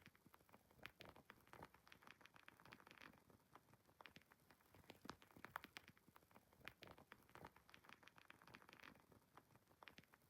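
Wood fire crackling quietly: irregular sharp pops and snaps over a faint hiss.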